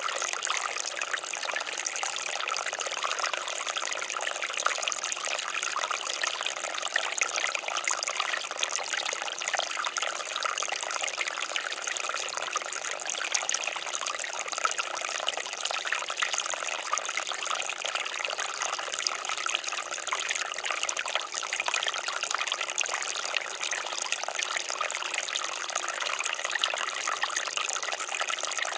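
Water fountain splashing steadily: water trickling and falling into a pool in a continuous stream of small splashes.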